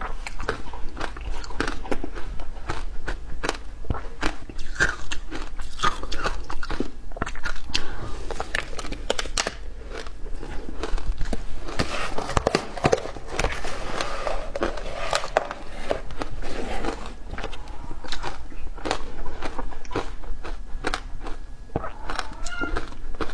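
Frozen matcha ice being bitten and chewed: dense, irregular crunching and cracking, many sharp snaps in quick succession.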